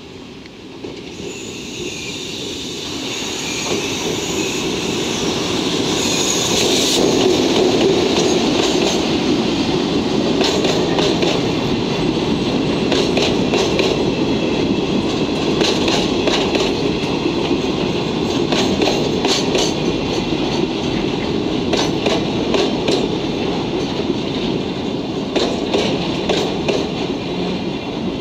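Rail-carrying train of Chiki flatcars hauled by an EF65 electric locomotive passing close by. It grows louder over the first seven seconds with high squealing tones, then the loaded wagons roll past with a steady rumble and rapid clacks of wheels over rail joints.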